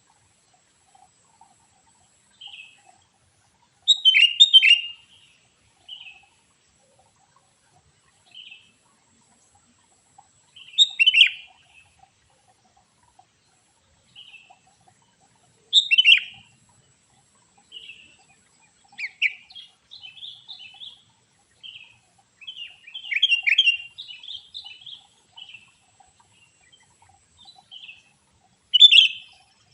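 Small birds chirping in short, sharp calls, with loud rapid flurries every five to seven seconds and softer single chirps between them: the calls of a wild bird fighting another bird.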